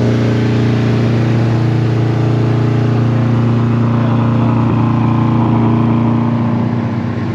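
Car engine droning steadily at a constant pitch, easing off briefly about seven seconds in.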